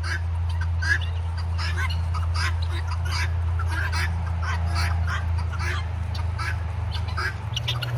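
Domestic guinea fowl (helmeted guineafowl) calling over and over in short, harsh, repeated calls, about two a second, with a steady low rumble underneath.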